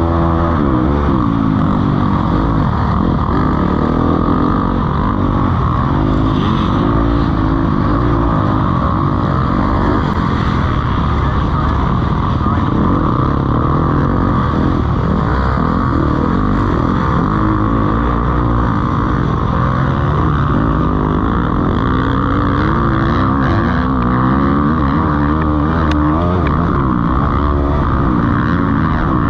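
Motocross bikes racing on the track, several engines at once, their pitch rising and falling over and over as the riders open the throttle, shift and back off.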